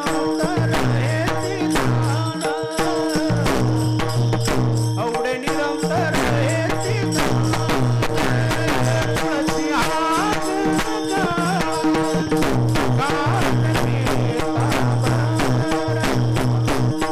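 Marathi devotional kirtan singing: a man's voice sings a melody over a sustained drone, with percussion keeping a steady, fast beat throughout.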